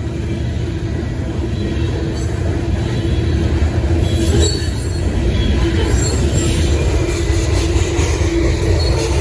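Freight train cars rolling past in a steady low rumble, with the wheels squealing on the rail from about four seconds in.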